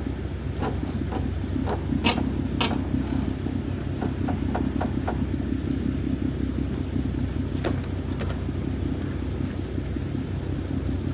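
Steady low hum of an idling vehicle, with scattered sharp clicks and knocks as a screw is worked into a car's loose rear diffuser to refasten it. Two louder knocks come about two seconds in, and smaller clicks follow over the next several seconds.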